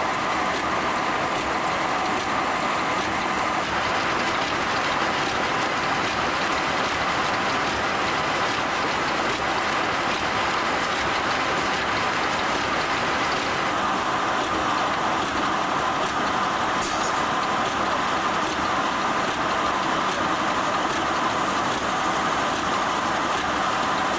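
Steam-powered sawmill machinery running: a steady machine noise with a few held tones, shifting slightly about fourteen seconds in.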